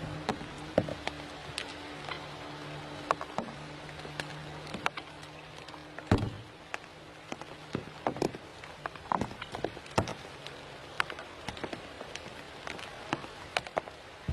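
Irregular sharp clicks and taps, some close together, with a low steady motor-like hum that stops about six seconds in.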